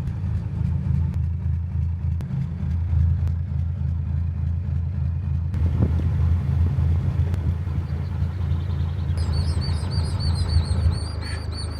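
Narrowboat's diesel engine running steadily with a low rumble, easing off near the end. From about nine seconds in, rapid high-pitched peeping, likely ducklings, sounds over it.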